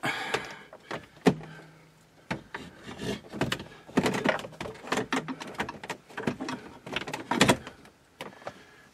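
Irregular plastic clicks, knocks and rattles as the climate control panel's wiring connectors are plugged back in and the unit is handled in the dash.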